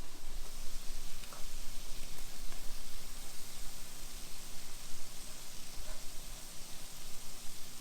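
Twisted donut dough deep-frying in hot oil: a steady sizzling hiss.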